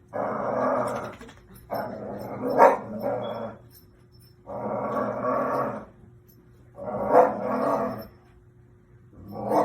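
An animal growling in about five bouts of a second or so each, with short pauses between them; some bouts rise to a sharper, louder peak.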